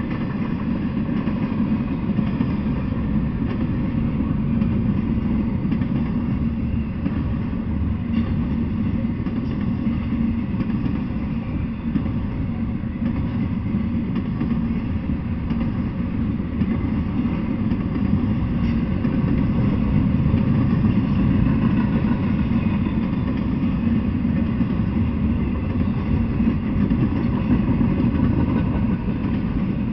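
Double-stack intermodal freight train rolling past, its well cars making a steady, mostly low-pitched noise of wheels on rails.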